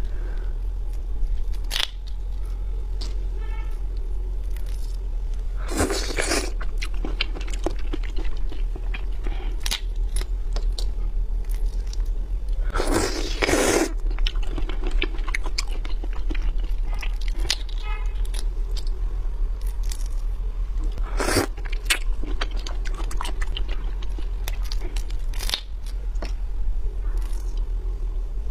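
Close-miked chewing and crunching of raw shrimp, with small clicks throughout and louder crackling bursts about three times, over a steady low hum.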